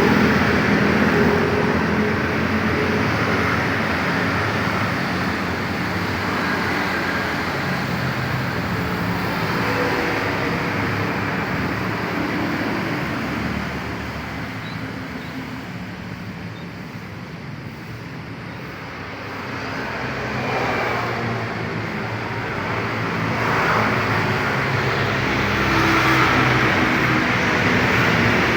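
Kawasaki trail motorcycle's two-stroke engine running, its pitch shifting with the throttle; it fades about halfway through and builds back up near the end.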